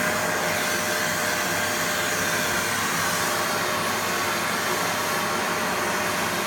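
Vacuum cleaner motor running steadily, a loud even rushing of air with a faint motor whine.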